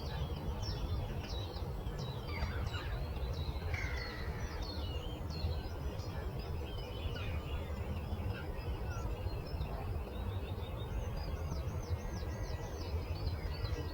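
Several songbirds chirping and singing, with a fast run of repeated high notes near the end, over a steady low background rush.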